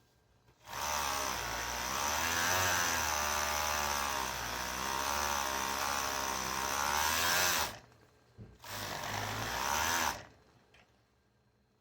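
A small electric motor runs for about seven seconds, its pitch wavering up and down as the speed changes, stops, then runs again for about a second and a half.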